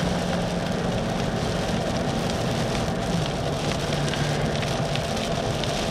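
Steady hiss of tyres and rain on a wet road, heard from inside a moving car, with the car's low engine hum underneath; the hum drops in pitch about three seconds in.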